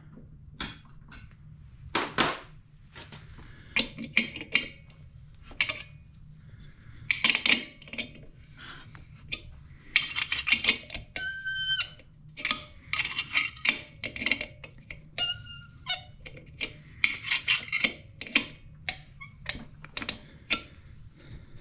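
Metal hand tools clinking, tapping and scraping during wrench work on an air compressor fitting. Irregular sharp clicks run throughout, with a brief metallic ring about halfway through and another a few seconds later.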